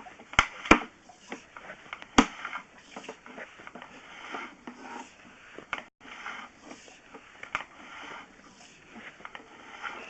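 Sewer-inspection camera gear being worked: sharp clicks and knocks, three loud ones in the first two seconds, over irregular scraping and rustling.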